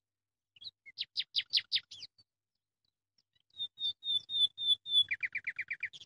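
A songbird singing: a quick run of falling notes about a second in, then a series of short, clear, evenly spaced notes, then a fast trill of falling notes near the end.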